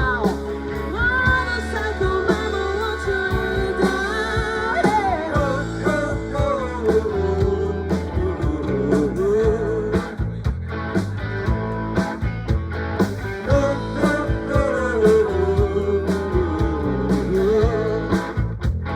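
Rock-blues band playing an instrumental break: a guitar lead with bent notes and vibrato over bass and a steady drum beat.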